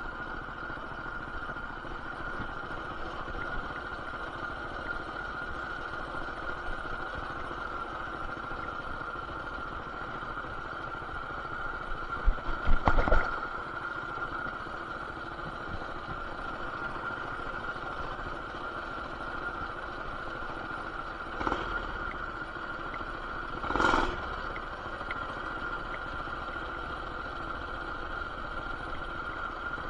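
BT200X mini bike's engine running steadily with its stage 1 header and RLV exhaust, sounding muffled through a camera's plastic case. A loud cluster of clattering knocks comes about twelve seconds in, and two shorter thumps follow later.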